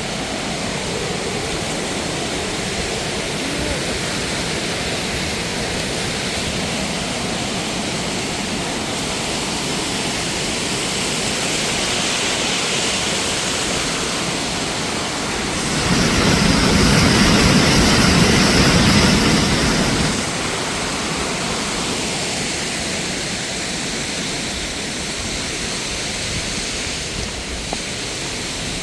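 Steady rush of water pouring over rocks from a mountain waterfall. For about four seconds past the middle it grows louder and fuller, with a deeper rumble.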